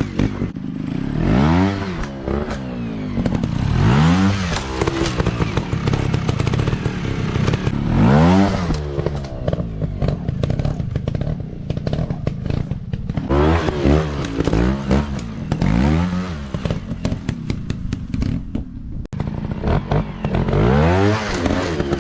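Off-road dirt bike engines revving again and again, the pitch climbing and dropping with each burst of throttle, with clattering and scraping underneath.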